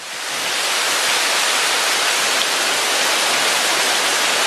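Heavy rain pouring down, a steady dense hiss that fades up from silence in the first half second.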